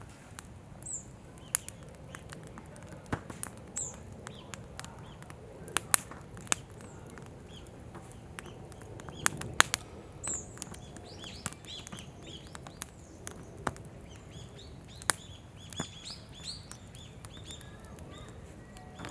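Wood campfire crackling, with irregular sharp pops and snaps from the burning firewood. Small birds chirp now and then, more often near the end.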